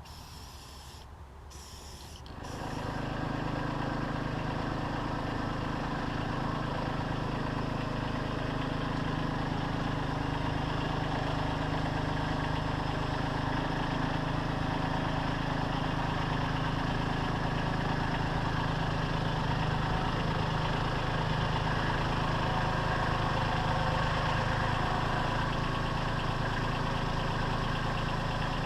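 An engine comes in about two and a half seconds in and then idles steadily.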